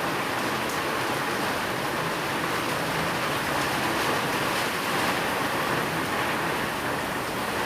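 Steady rain falling, an even, unbroken hiss with no distinct drops or thunder. A faint low tone comes and goes underneath.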